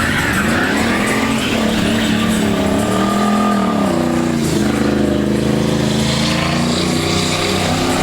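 A truck engine revving: its pitch climbs about three seconds in, drops sharply a second later, then holds fairly steady.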